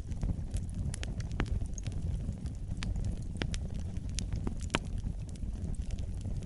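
Wood fire burning in a fireplace: a steady low rumble of the flames with irregular sharp crackles and pops, the loudest a little before the end.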